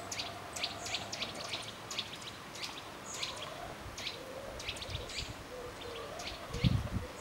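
Small songbirds chirping in the trees, many short high chirps coming several times a second. A few low bumps come in near the end.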